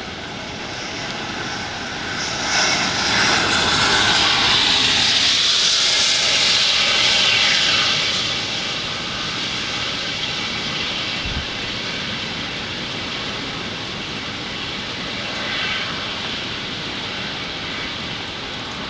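Heavy rain and storm noise from a hurricane. About two seconds in, a loud rushing noise swells for several seconds, then eases back to the steady rain.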